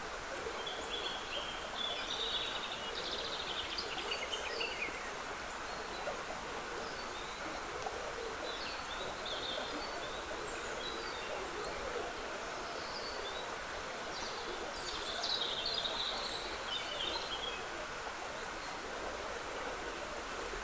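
Woodland birds singing in short chirping phrases, strongest near the start and again about three quarters of the way through, over the steady trickle of a small stream.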